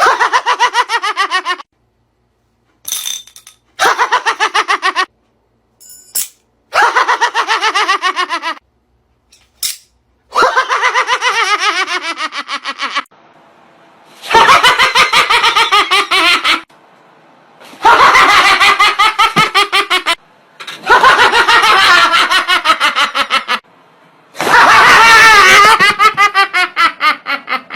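A person laughing hard in about nine separate bouts, each a rapid run of ha-ha pulses that often falls in pitch. The bouts grow longer and louder toward the end.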